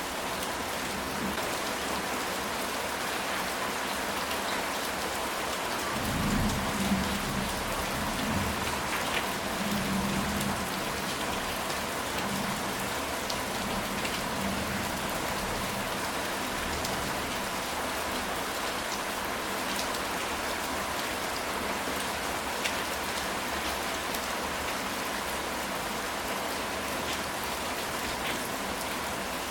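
Steady rain falling on a ceramic tile roof, with a low roll of thunder about six seconds in that rumbles for a few seconds and fades back into the rain.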